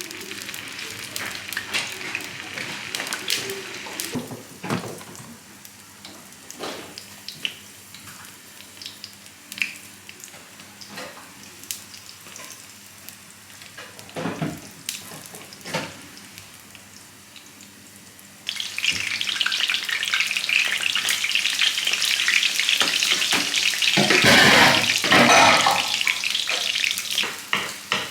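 Kitchen utensils clicking and knocking, then about two-thirds of the way in a sudden loud frying sizzle that swells briefly near the end.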